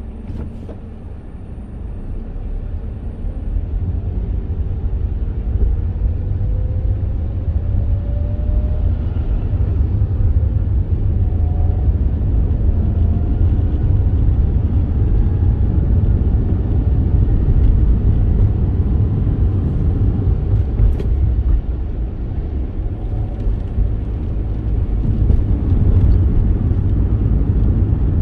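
Car driving: a steady low rumble of engine and road noise that builds over the first few seconds, with faint rising whines as it gathers speed.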